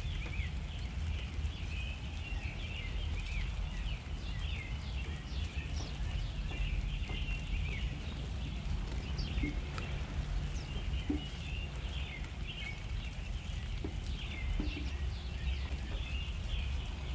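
Many small birds chirping, short overlapping calls that run on continuously, over a steady low rumble.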